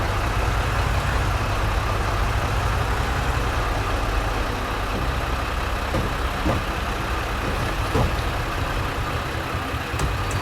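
A truck engine idling steadily, a low rumble, with a few faint clicks in the second half.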